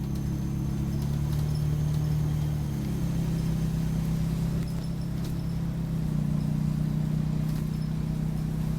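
Optare Solo bus's engine and drivetrain droning inside the passenger cabin while under way, a steady low hum that shifts in pitch about three seconds in and again about six seconds in. Faint small squeaks come and go over it.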